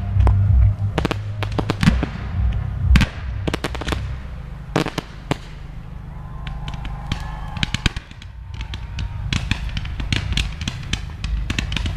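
Fireworks display: a string of sharp bangs and crackling reports, thinning to a brief lull about two thirds of the way through, then a dense run of rapid crackles near the end.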